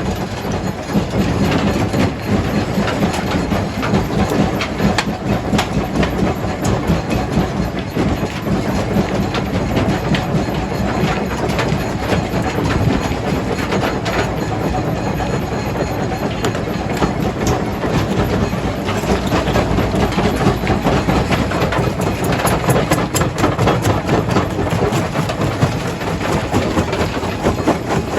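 Stone crusher running under load: a loud, steady rumble with constant clattering and sharp knocks as rocks are crushed, the knocks coming thicker in the second half.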